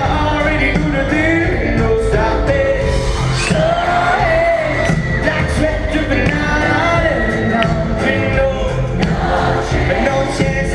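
Live pop-rock band playing with singing, loud and steady throughout.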